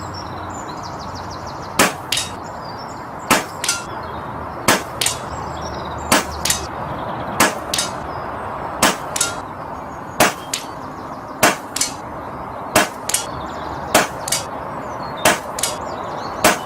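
Brocock Concept pre-charged pneumatic air rifle firing a string of about a dozen shots, roughly one every second and a half, each shot followed about a third of a second later by the pellet striking the target.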